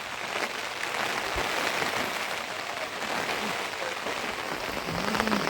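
Steady rain pattering on a surface, a dense hiss of many small drop ticks.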